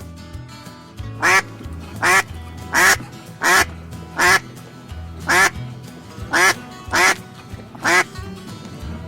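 A duck quacking: about ten loud quacks starting about a second in, one every second or less, over background music with a steady bass line.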